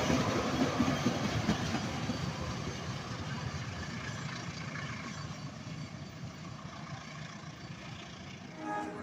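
Train running past and moving away, its rumble fading steadily.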